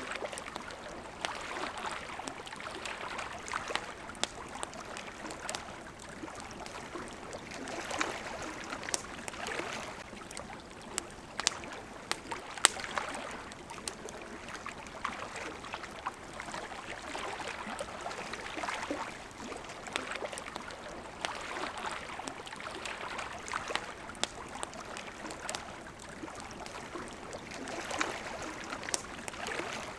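Small waves lapping against a riverbank, swelling and ebbing every few seconds, with a campfire crackling and popping in sharp scattered snaps throughout.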